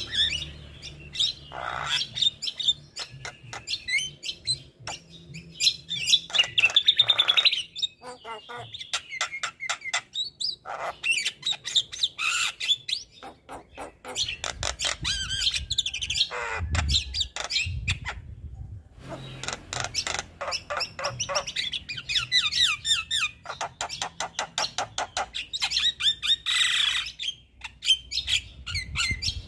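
Male Javan myna (jalak kebo) singing nonstop: a varied stream of rapid chattering clicks, whistled notes and harsh squawks.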